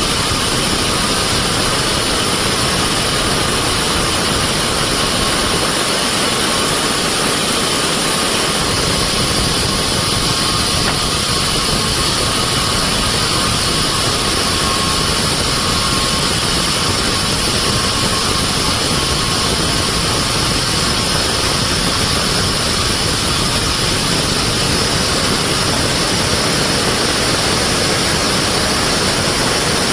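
Band sawmill running steadily: a loud, unbroken machine noise with a faint high whine held throughout.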